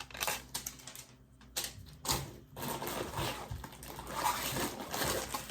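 Unboxing handling noise from the light kit's packaging and small parts: irregular rustling with light clicks and rattles, and a louder rustle a little past two seconds in.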